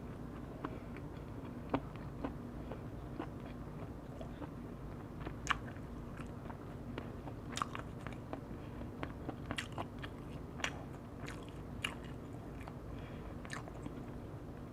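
Close-up eating sounds: chewing and biting into oak-firewood-roasted chicken, with irregular sharp crunches and mouth clicks. A steady low hum runs underneath.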